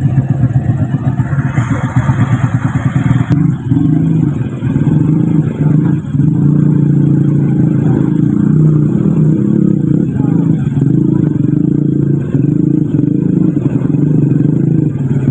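Vehicle engine running steadily in slow traffic, a low hum that pulses for the first few seconds and then evens out, with a single sharp click about three seconds in.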